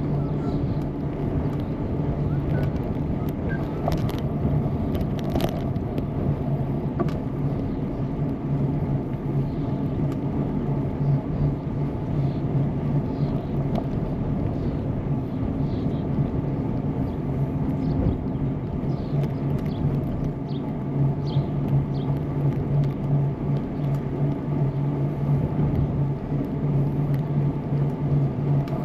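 Steady rolling rumble and hum of a bicycle in motion, its tyres running on the path, with a couple of sharp clicks or rattles about four and five and a half seconds in.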